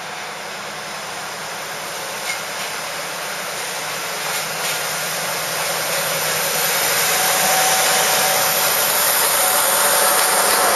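Coal train approaching, its running noise with a strong hiss growing steadily louder, with a few light clicks along the way.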